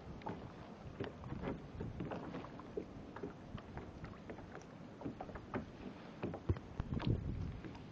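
Water lapping and splashing against a kayak, with many small irregular splashes and knocks. A louder low thump comes about six and a half seconds in, with another burst just after.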